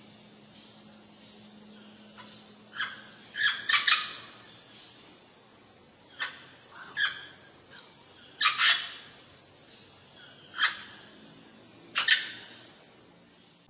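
Birds calling: short, sharp calls every second or two, some coming in quick pairs or clusters, over a faint steady background hiss.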